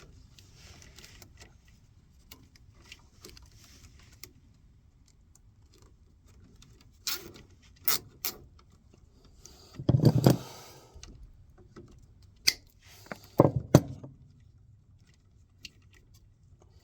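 Scattered short metallic clicks and clinks, with a louder clatter about ten seconds in: hands and tools handling wires and terminals inside a furnace while a replacement transformer is wired in.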